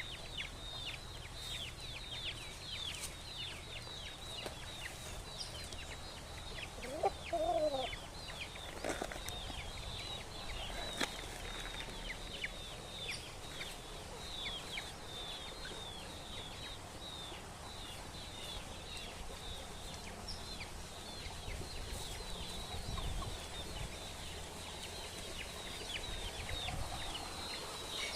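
Chickens calling: rapid high chirps that slide down in pitch keep going throughout, and a louder, lower call rises and falls about seven seconds in.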